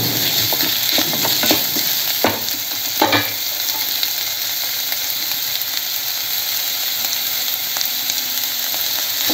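Chopped onion and capsicum sizzling as they fry in hot oil in a kadai, a steady hissing. A spatula scrapes and knocks against the pan several times in the first three seconds, then only the sizzling goes on.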